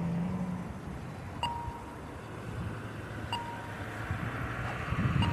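Bicycle riding noise, a low rumble of wind and tyres, with a light metallic ping that rings briefly about every two seconds.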